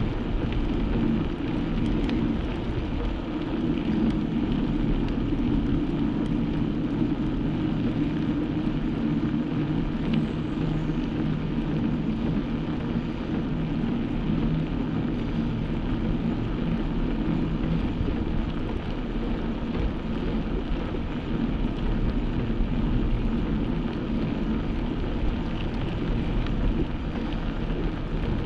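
Steady low rumble of riding a bike: wind and road noise with a faint low drone, unbroken throughout.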